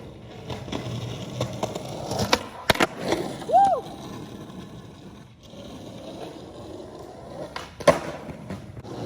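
Skateboard wheels rolling on pavement, with sharp clacks of the board's tail popping and the deck landing about two and a half seconds in and again near the end, and a brief squeak just after the first clacks.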